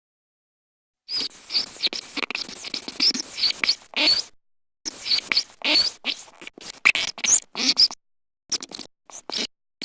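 Rapid high-pitched squeaks and chirps in short bursts over a scratchy rustle, starting about a second in, like the squeaking of mice.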